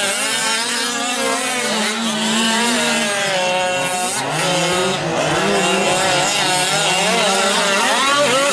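Several 1/5-scale gas RC trucks' small two-stroke engines racing together, each one's pitch rising and falling as the throttle is opened and eased off through the course, overlapping into a buzzing chainsaw-like whine.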